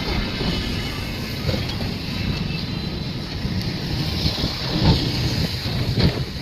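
A running train: a steady low rumble with a couple of louder knocks near the end.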